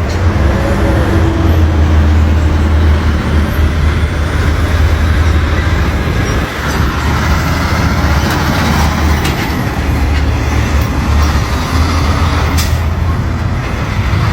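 Heavy diesel truck engine running with a deep, steady rumble.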